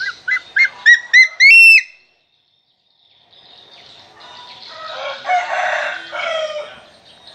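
A captive bird of prey calls a rapid series of about six short, shrill whistled notes, each a little higher, ending in one longer note. After a pause comes a rougher, noisier stretch of sound.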